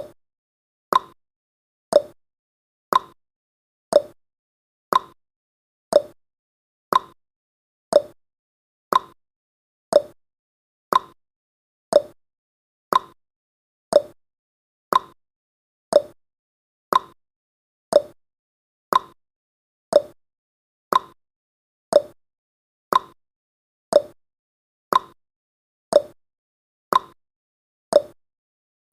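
Clock-ticking sound effect of a countdown timer: one short tick every second, evenly spaced, with silence between. Successive ticks seem to alternate slightly in pitch, like a tick and a tock.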